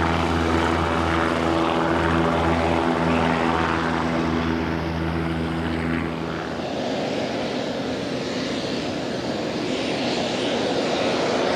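Mooney M20J's four-cylinder piston engine and propeller running steadily at takeoff power. About six seconds in it cuts to the even rushing noise of a Pilatus PC-12 NGX turboprop.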